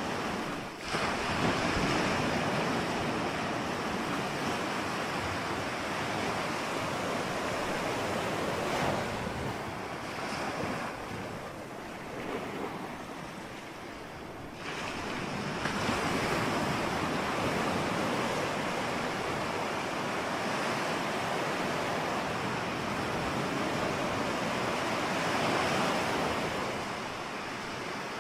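Ocean surf: a continuous rush of breaking waves that swells and ebbs, easing off for a few seconds before a fresh wave surges in about halfway through.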